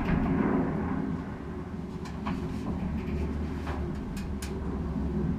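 Hands working inside a dryer cabinet to fit the drive belt back on: a few short clicks and light knocks of metal parts over a steady low rumble.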